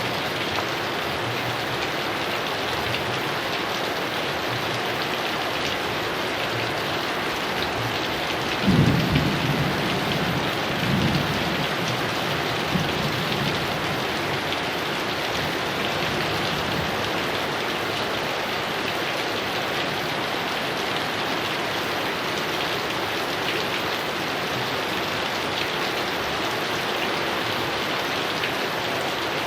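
Heavy rain falling steadily, with a clap of thunder about nine seconds in that rumbles on and fades over the next few seconds.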